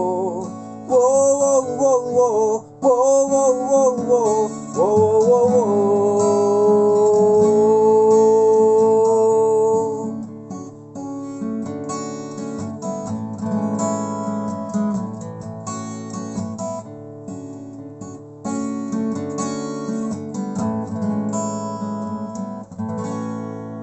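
A song with a singing voice and strummed acoustic guitar: the voice bends through a wordless phrase and then holds one long note. After about ten seconds the voice drops out and the acoustic guitar strums on alone, fading away near the end.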